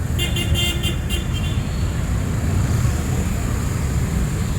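City street traffic rumbling steadily. Near the start, a brief high-pitched stuttering beep sounds for about a second.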